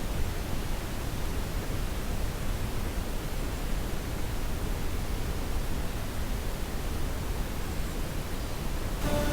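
Steady, even outdoor rushing noise. Background music comes in just before the end.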